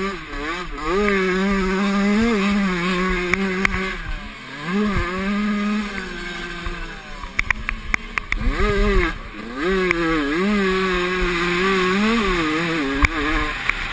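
Motocross motorcycle engine revving hard, its pitch climbing, holding and dropping again and again as the rider accelerates, shifts and backs off, with a few sharp clicks in between.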